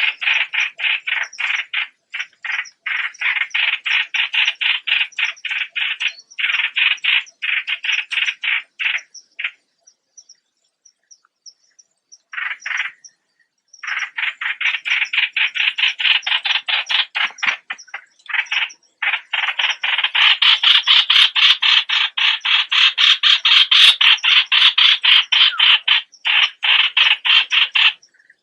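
Streak-eared bulbul calling: a harsh note repeated rapidly, about four times a second, in long runs, with a few seconds' pause near the middle.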